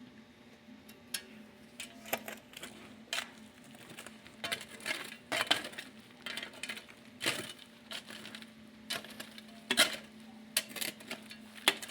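Irregular clicks and light clinks of small hard objects being handled, more frequent from about four seconds in, over a faint steady hum.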